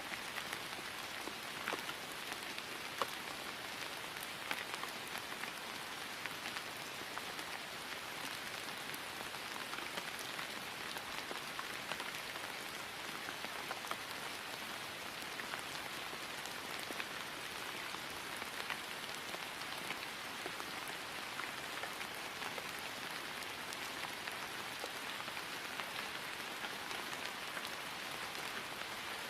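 Steady rain falling on grass, an even hiss with scattered distinct drop ticks.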